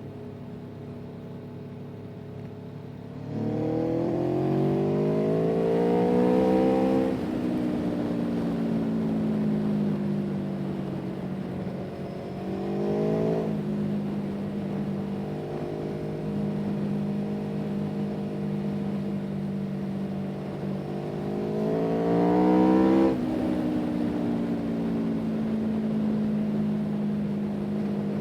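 An engine running steadily and speeding up three times, its pitch rising each time and then dropping suddenly.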